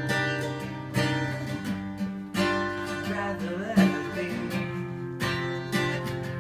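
Acoustic guitar strummed in steady chords, with a short melodic run about halfway through, in an instrumental break of a song.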